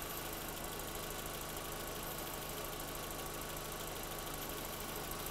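Skoda Fabia's 2.0-litre AZL four-cylinder petrol engine idling steadily. Its mass air flow sensor connector is broken, so the sensor reports zero air mass and the mixture is running lean.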